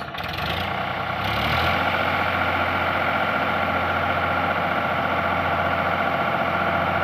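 Sonalika RX 45 DI tractor's diesel engine running, growing louder over the first second and a half and then running steadily.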